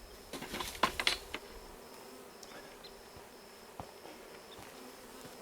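Honeybees buzzing steadily around a newly installed hive, many still flying outside it. Early on, a short run of clattering knocks stands out over the buzzing.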